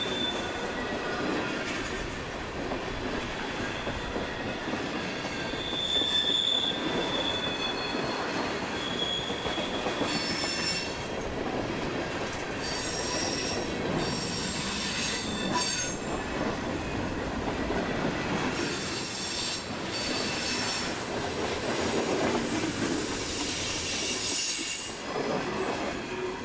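Freight train cars rolling past with a continuous rumble, and high-pitched steel wheel squeal that comes and goes.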